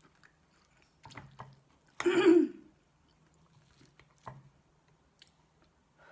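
Close-up eating sounds: wet chewing of chilli cheese fries, with a louder burst of mouth noise about two seconds in. A metal fork clicks sharply against the ceramic plate a little after four seconds in.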